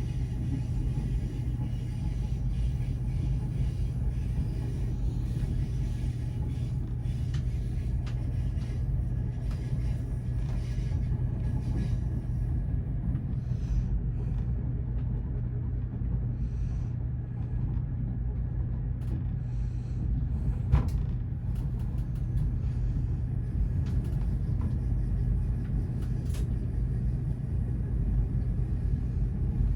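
Steady low rumble of a VIA Rail Canadian passenger car rolling along the track, heard from inside a sleeper cabin. A single sharp click sounds about two-thirds of the way through.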